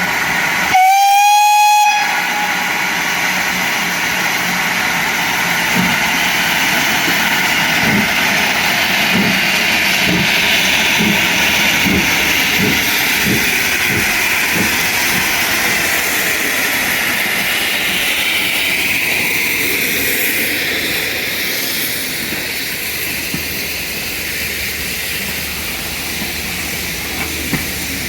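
A steam locomotive's whistle gives one short blast about a second in, rising slightly in pitch as it opens. The train then runs on with a steady hiss and a string of low thumps, growing quieter in the last third.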